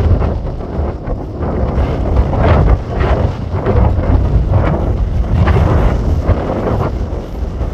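Strong gusty wind buffeting the microphone: a heavy low rumble with irregular hissing surges.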